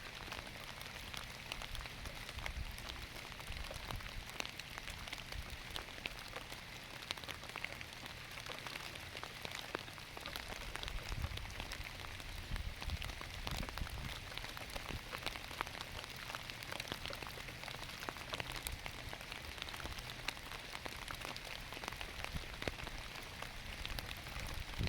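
Steady rain falling on garden lettuce, a constant hiss full of quick ticks from individual drops striking the leaves.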